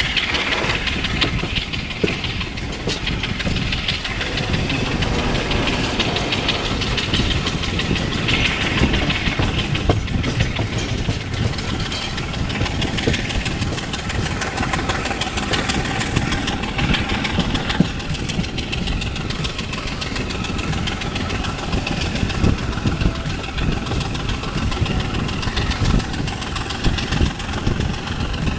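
Ride noise of a moving passenger train heard from an open carriage window: steel wheels running on the rails and the coach rattling steadily, over the drone of the Class M10 diesel locomotive hauling the train.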